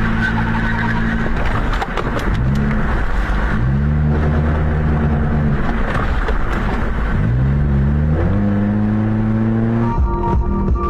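Car engine accelerating over road noise, its pitch climbing in steps and dropping back in between, as when revving through gear changes.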